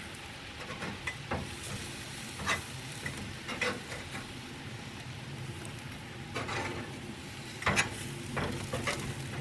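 Prairie chicken breasts sizzling on a grill, a steady hiss, with a few light clicks and taps as the pieces are handled and lifted off.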